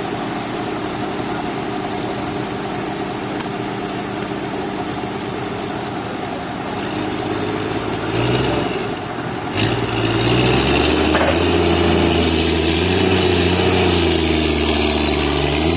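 An engine running steadily at idle. About eight seconds in its note shifts with a brief knock, and from about ten seconds it runs louder with a deeper, fuller note that wavers slightly in pitch.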